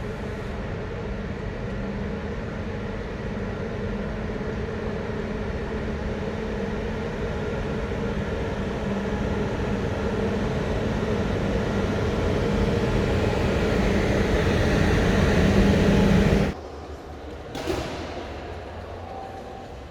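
A train running nearby: a steady rumble with a low hum that slowly grows louder, then cuts off abruptly about sixteen seconds in. A quieter train sound with a single short knock follows.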